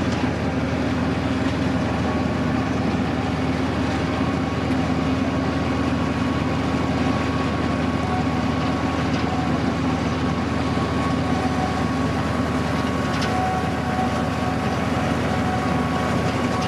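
Tourist train running steadily, heard from aboard: a continuous rumble of the ride with a steady low drone. A faint thin high tone comes in about two seconds in and holds.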